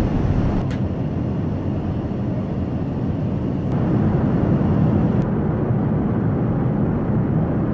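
Steady in-flight cabin noise of an Airbus A380 at cruise: an even low rush of engine and airflow noise through the cabin.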